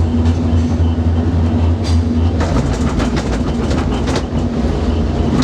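Skyrail gondola cable car heard from inside the cabin: a loud, steady low hum, with a run of rapid clacks from about two seconds in, lasting about two seconds, as the cabin rolls over a support tower's rollers.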